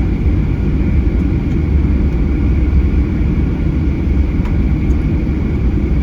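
Cabin noise of a Boeing 737-800 with its CFM56 engines near idle while taxiing: a steady low rumble with a faint, even high whine over it.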